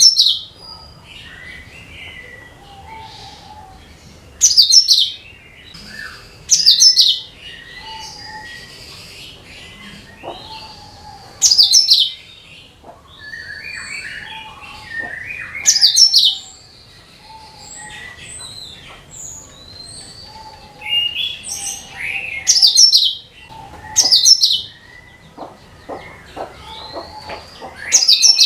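Cucak kinoi singing: short, loud, high-pitched phrases repeated every few seconds, with quieter chirps and whistles from other birds in between. It is played as a lure call to set other birds singing.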